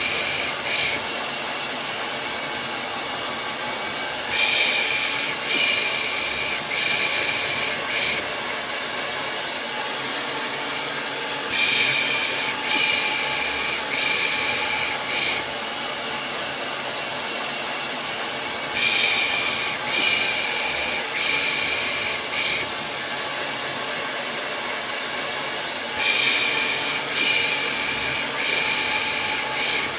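Steady hair dryer noise with a voice shushing 'pış pış' over it in sets of four short hisses, a set about every seven seconds: a white-noise loop for lulling a baby to sleep.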